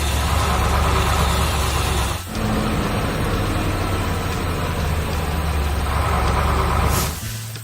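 Heavy construction-vehicle engine running steadily with a deep, low rumble. It drops out briefly about two seconds in, and a short whoosh comes just before the end.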